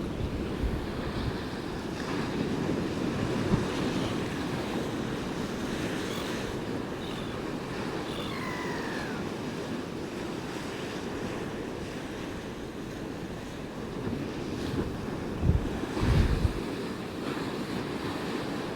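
Storm surf breaking on the North Sea shore in a gale: a steady rush of waves, with wind buffeting the microphone in gusts near the end.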